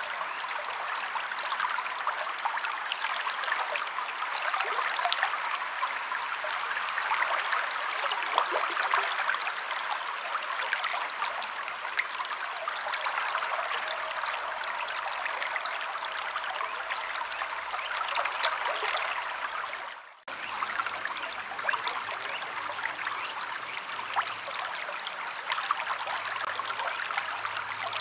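A stream of water flowing and trickling steadily over rocks. About twenty seconds in, the sound fades out for a moment and then resumes.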